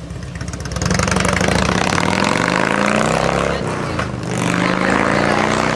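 Motorcycle engine accelerating, its pitch climbing for about two seconds, dipping just after four seconds in as it shifts gear, then climbing again.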